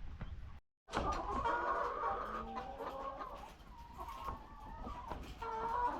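A flock of laying hens clucking, many calls overlapping. The calls start after a brief gap about a second in, thin out in the middle and build again near the end.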